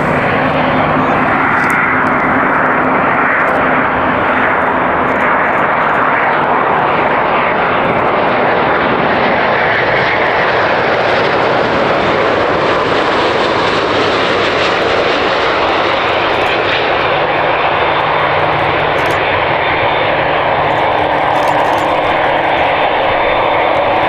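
Jet airliner's engines at close range: a loud, steady rush of jet noise that holds for the whole stretch.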